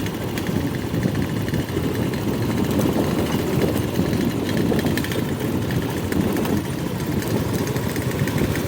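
Motorcycle engine running steadily on the move, with a continuous low rumble and no breaks.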